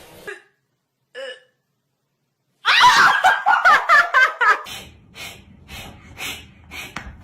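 A person bursting into hard laughter about two and a half seconds in, which trails off into a run of shorter, breathy bursts of laughing.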